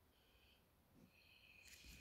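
Near silence: room tone, with faint high-pitched sound briefly near the start and again near the end.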